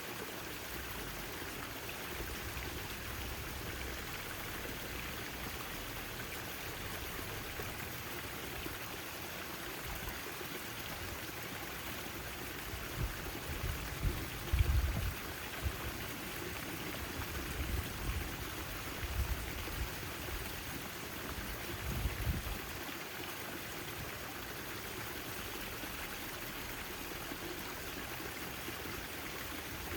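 Backyard fountain water splashing and trickling steadily. Midway through, a few brief low rumbles rise above the water, the loudest moments.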